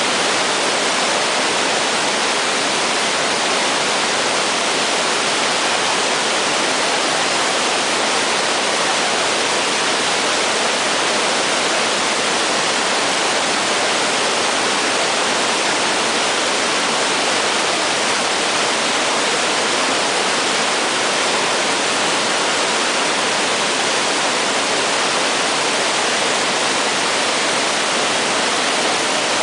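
Floodwater rushing steadily in a river in spate, swollen by heavy rain and a landslide upstream in the forest.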